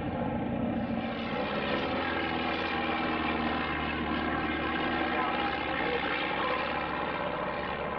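Propeller aircraft engine droning steadily overhead, a steady pitched engine note with many evenly spaced overtones.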